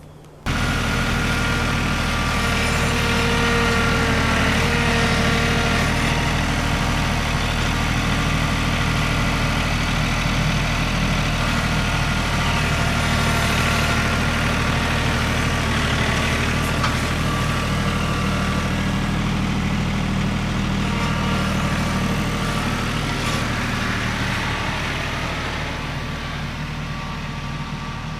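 A large engine running steadily at a constant speed, easing off slightly in loudness near the end.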